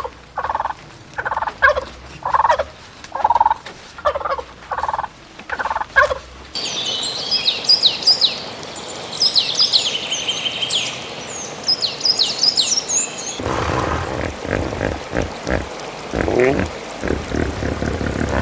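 A sequence of animal and bird calls. First comes a run of short, repeated calls about twice a second. About six seconds in it switches to high chirping birdsong, and from about thirteen seconds on there are lower, busier calls.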